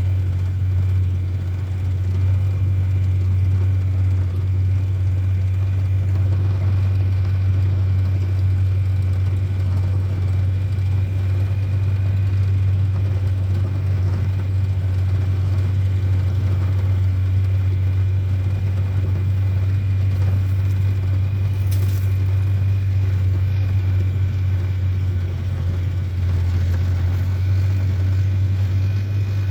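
A vehicle running steadily: a constant low drone with a faint, thin high whine above it.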